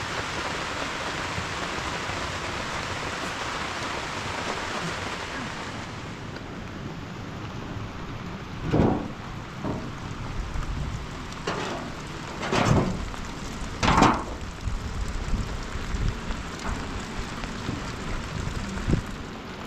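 Steady rain hiss that eases after about six seconds, with three short louder noises in the second half.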